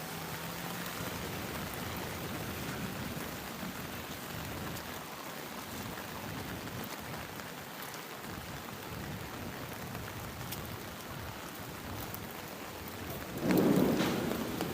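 Steady rain falling and pattering on surfaces. Near the end a sudden, much louder rush swells for about a second and then fades.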